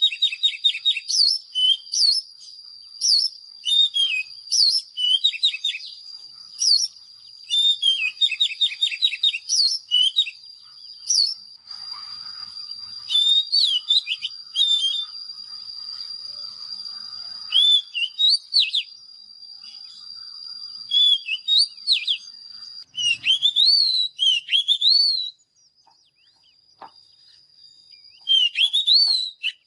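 Oriental magpie-robin singing: rapid, varied whistled phrases with quick rising and falling sweeps, and one high note held steady for several seconds midway. The song pauses for a couple of seconds near the end, then starts again.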